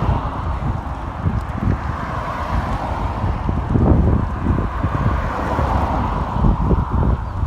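Wind buffeting a phone's microphone while riding a bicycle: a steady rushing noise with irregular low rumbling gusts.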